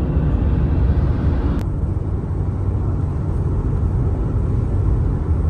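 Steady road and engine noise of a moving car heard from inside the cabin, a deep continuous rumble, with a brief click about one and a half seconds in.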